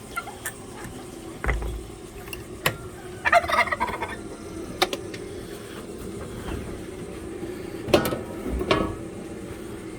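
Domestic turkeys gobbling: a rapid warbling gobble about three seconds in and another near eight seconds, with a few short sharp clicks between them.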